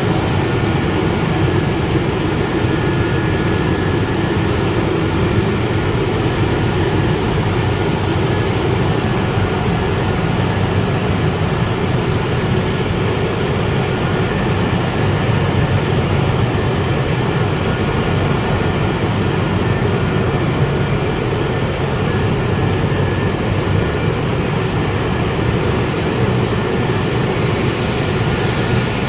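Wood pellet production line machinery running steadily: a loud, even mechanical noise with a few faint steady high tones running through it.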